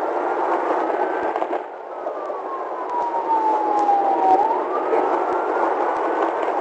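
Police car siren wailing, its pitch sliding slowly down and then back up over several seconds, over a steady rushing noise.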